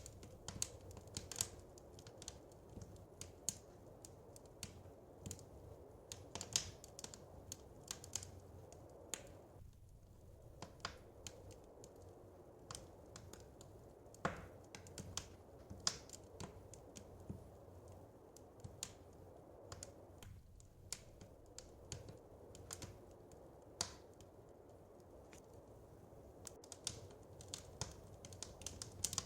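Wood fire crackling in a fireplace: irregular snaps and pops, some sharper and louder than others, over a low steady rush.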